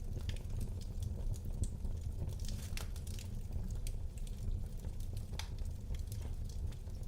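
Wood fire burning in a fireplace, crackling and popping at irregular moments over a low steady rumble.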